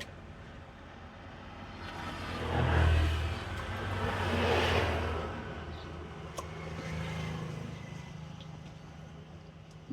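A motor vehicle passing on the road: engine hum and tyre noise swell up, peak about three to five seconds in, and fade away, followed by a fainter second swell a couple of seconds later.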